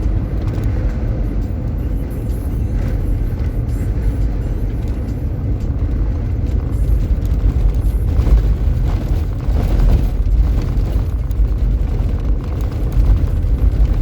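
A vehicle driving, heard as a steady low rumble that swells a little louder in the second half.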